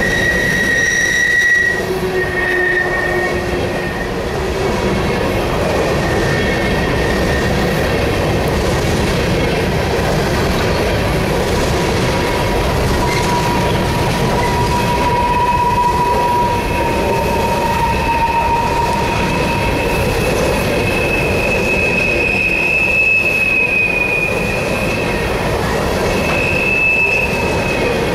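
Empty coal hopper cars of a CSX freight train rolling past, with a steady rumble of steel wheels on rail. High-pitched wheel squeals come and go over it, a higher one at the start, a lower one in the middle and another rising in the second half.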